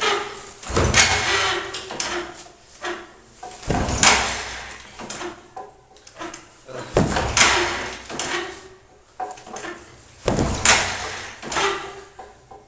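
Motorcycle engine being cranked over in four start attempts about three seconds apart. Each is a short burst that fades away without the engine catching: the bike won't start.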